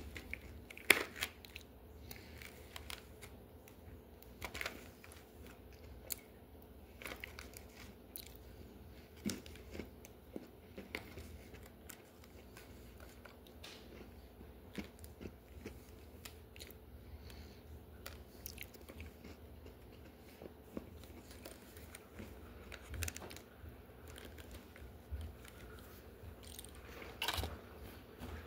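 A person quietly chewing and crunching crisp vanilla Dunkaroos cookies, with scattered small crunches and clicks.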